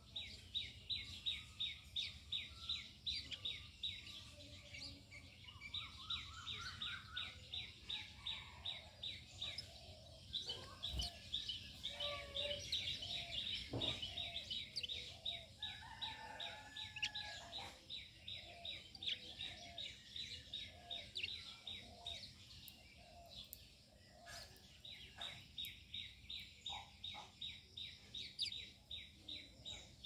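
Birds calling: long runs of rapid, evenly repeated high chirps, about five a second, with softer, lower calls from other birds underneath.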